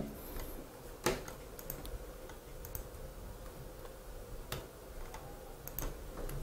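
A few sparse, sharp clicks of a computer keyboard or mouse being used, several seconds apart, over a faint steady hum.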